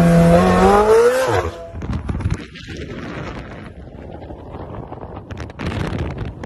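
Supercar engine running with a steady note that swells briefly and then dies away about a second and a half in, leaving low rumbling and rustling noise.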